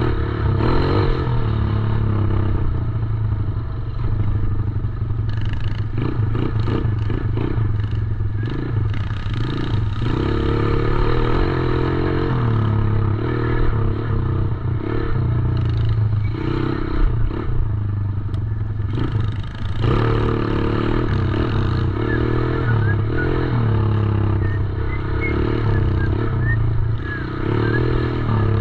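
A 110cc dirt bike engine running continuously while ridden, its pitch rising and falling with the throttle.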